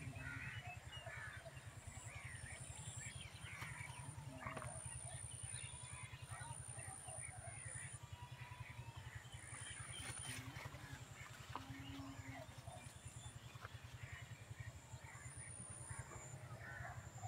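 Birds chirping and calling here and there over a steady low rumble, with a faint high whine that comes and goes and a few brief rustles.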